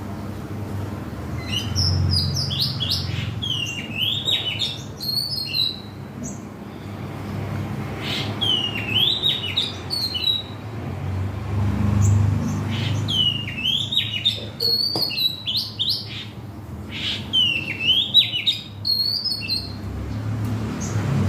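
A songbird singing in repeated phrases of quick, varied whistled notes, four bouts a few seconds apart, over a low rumble in the background.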